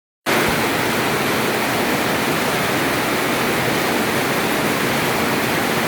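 Heavy rain pouring down, a dense, steady hiss that starts abruptly just after the beginning.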